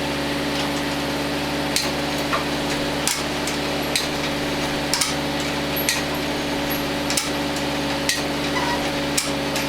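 Sharp metallic taps or clicks about once a second over a steady hum, from work on the engine and its hoist.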